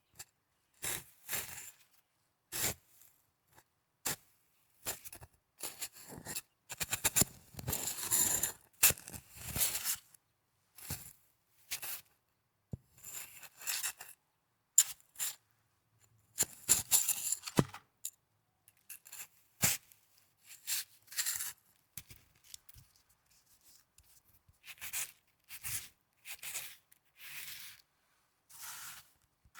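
Snow crunching and scraping as it is handled up close, in short irregular bursts with brief pauses between them and a denser run of crunching about a third of the way in.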